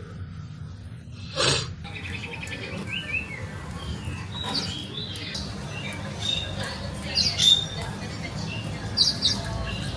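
Birds chirping in short, scattered high calls over a steady low hum, with a brief rustle-like sound about a second and a half in.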